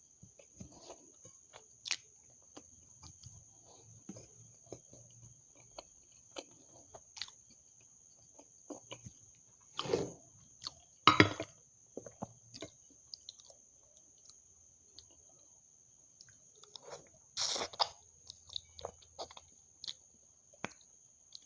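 Close-miked chewing of food, with soft wet smacks and small crunches. A few louder bursts of mouth sound come around halfway through and again about three quarters through.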